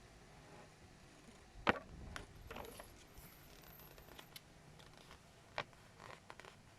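Plastic building bricks being handled and pressed together: a sharp click about a second and a half in, a few lighter clicks and scrapes just after, and another click about two seconds before the end.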